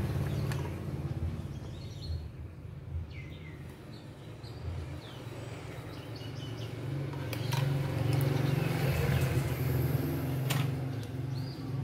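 Small birds chirping now and then over a steady low engine rumble that grows louder after the middle, with a few sharp clicks.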